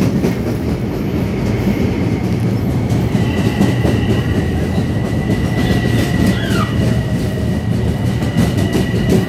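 Commuter train passing close by: a steady, loud rumble of wheels on rail, with a steady high-pitched tone joining about three seconds in.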